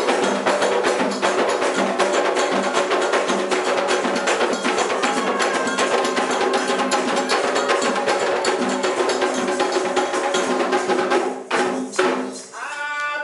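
Candomblé ritual music for Xangô: hand drums and a struck bell playing a dense, fast beat under group singing, breaking off about eleven and a half seconds in.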